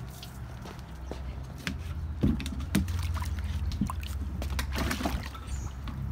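Muddy water sloshing and splashing in a plastic tub, with a few sharp knocks about two to four seconds in, over a steady low hum.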